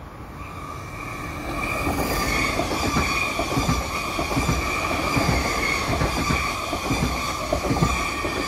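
A Südostbahn FLIRT electric multiple unit running past the platform, growing louder as it comes near. Its wheels make repeated clicks over the rails, under a steady high whine.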